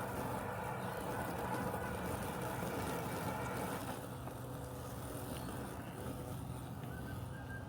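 Robotic lawn mower running with a steady mechanical hum. About four seconds in, the higher part of the sound fades and it gets slightly quieter.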